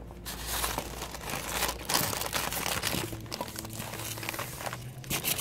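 Plastic packaging crinkling and rustling in irregular bursts as the lightsaber umbrella is unwrapped from its box packaging.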